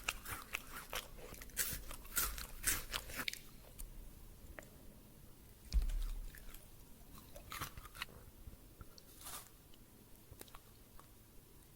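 Close-up chewing of crunchy chocolate candy: dense crunching for the first three seconds or so, then slower, sparser chewing. A single low thump about six seconds in.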